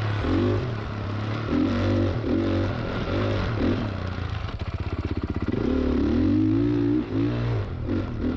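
Honda CRF450R single-cylinder four-stroke dirt bike engine revving up and down while riding, with clattering and scraping from the bike. About halfway through it drops to a fast, even chugging for a second before picking back up.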